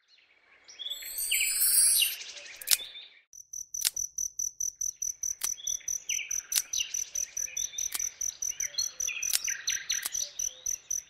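Outdoor nature ambience: birds chirping and twittering. About three seconds in, a cricket's fast, even chirping joins them and carries on steadily beneath more birdsong.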